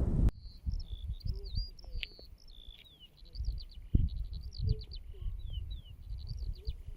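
A songbird singing a fast, varied run of high chirps, downward-sliding notes and trills, starting abruptly just after the start, with wind rumbling on the microphone underneath.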